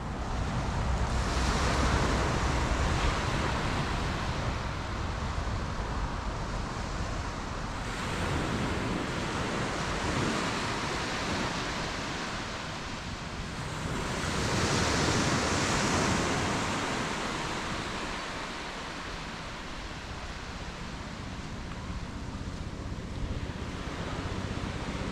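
Waves washing onto a beach in slow swells, two louder surges rising and falling, with wind rumbling on the microphone.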